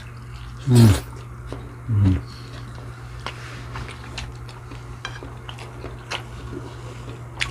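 Eating sounds: cutlery clicking against a plate, with chewing, over a steady low hum. About one and two seconds in come two short voice-like sounds that fall in pitch.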